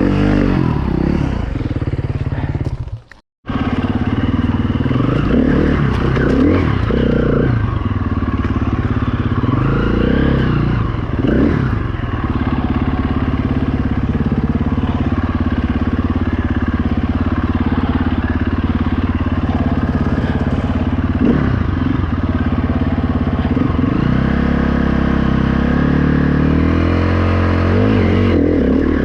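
A KTM 350 EXC-F dirt bike's single-cylinder four-stroke engine is being ridden, its revs rising and falling with the throttle. It cuts out to silence briefly about three seconds in.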